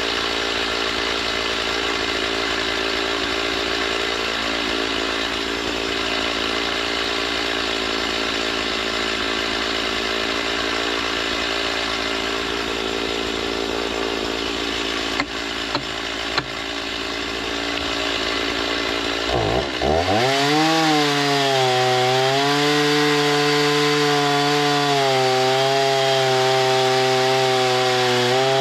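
Gas-powered saw engine running steadily while milling lumber, with a few sharp clicks around 15 to 16 seconds in. About 20 seconds in, the engine note glides up, then settles into a clearer pitch that wavers slowly up and down.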